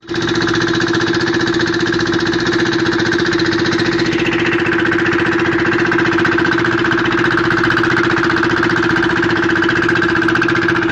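Boat engine running steadily at constant speed, a loud, even drone with a fast regular pulse.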